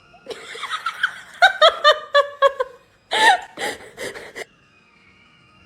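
A person laughing: a quick run of short rhythmic 'ha-ha' pulses lasting about two and a half seconds, then after a short pause a second, louder burst of laughter that stops about halfway through.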